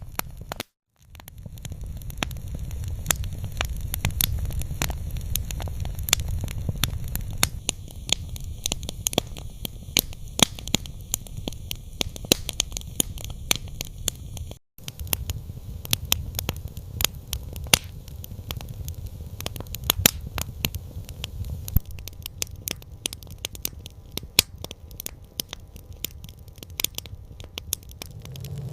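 Campfire crackling: frequent irregular sharp pops and snaps over a steady low rumble of the burning fire. The sound cuts out completely twice, briefly, about a second in and about halfway through.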